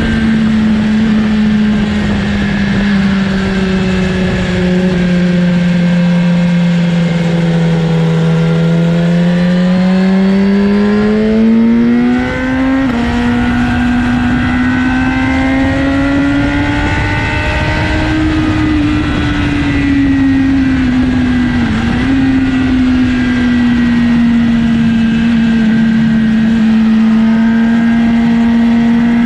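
BMW motorcycle engine at a race track, heard from on board: the note sinks slowly for several seconds, then climbs hard under acceleration with a brief break about twelve seconds in. After that it holds high and fairly steady, with a short dip a little past twenty seconds, over a steady rush of wind noise.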